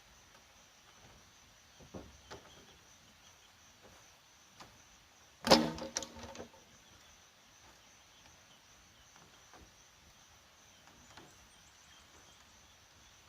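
A few light knocks, then one loud sharp knock with a brief ringing about five and a half seconds in, followed by two or three smaller knocks, over a faint steady high hum.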